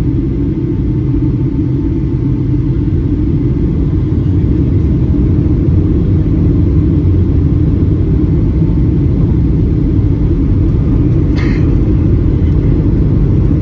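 Steady, loud low rumble of a Boeing 757-200 airliner cabin in flight: engine and airflow noise heard from a window seat. One brief click near the end.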